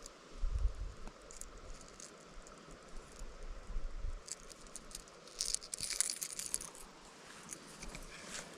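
Footsteps through forest undergrowth: rustling and crackling of brush and twigs with scattered clicks, a few low thuds near the start, and a denser burst of rustling just past halfway.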